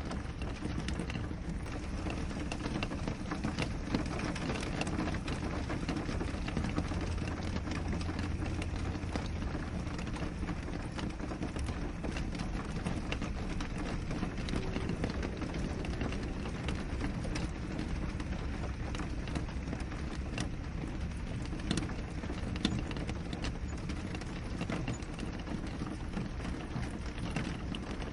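Steady rain against a window: an even hiss made up of many fine drop taps, without let-up.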